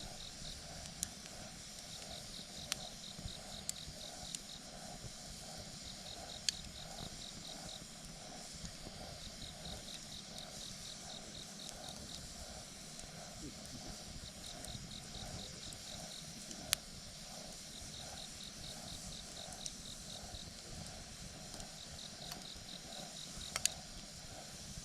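Campfire crackling, with a handful of sharp pops, the loudest about two-thirds of the way through and just before the end. Under it, crickets or similar insects chirp steadily in short high trills that repeat every few seconds.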